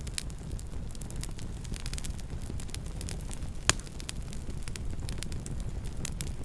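Campfire burning with a steady low rumble and scattered sharp crackles, one louder pop about four seconds in.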